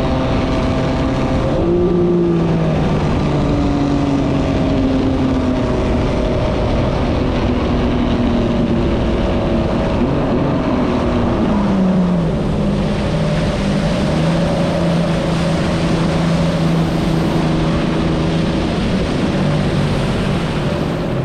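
Jet ski engine running under way, with water and wind rushing past. The engine note jumps up about two seconds in, glides down around the middle, then holds steady.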